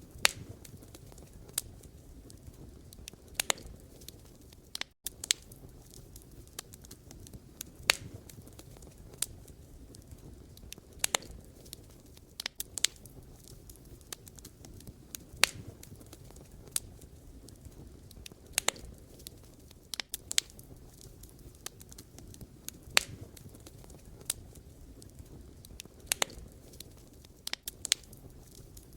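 Wood fire burning: a low steady rush with sharp, irregular pops and crackles of burning logs, one or two a second.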